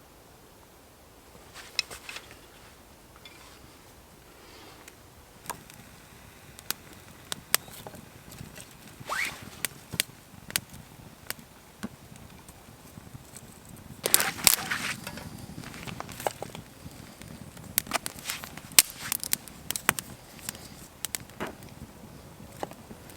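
Small campfire of fatwood and tinder being lit and catching: scattered sharp crackles and snaps, with a few brief louder rushes of noise, the loudest about 14 seconds in.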